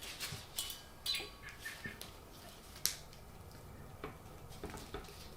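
Scattered light clicks and rustling from ceiling-fan mounting hardware being handled, with one sharper tick near the middle.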